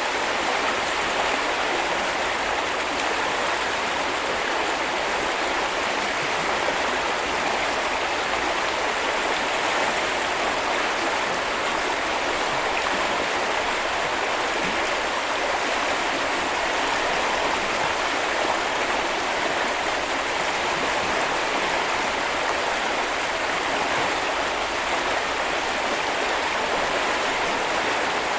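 Small river or stream flowing in a steady rush of running water.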